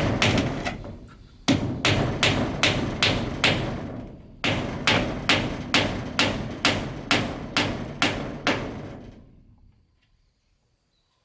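Rapid, evenly spaced strikes of a tool on wood, about three a second, in three runs with short pauses, stopping near the end.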